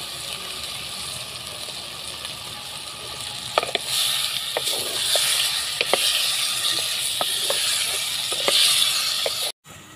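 Cauliflower florets and potato slices sizzling as they fry in a blackened pot, with a wooden spatula clicking and scraping against the pot as they are stirred. The sizzle grows louder about four seconds in and cuts off suddenly just before the end.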